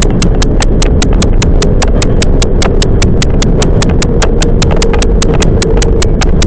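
Toyama Chihō Railway 10030-series electric train running, heard inside the car as a loud, steady low rumble of wheels and running gear. Over it runs a fast, perfectly even clicking, about five clicks a second.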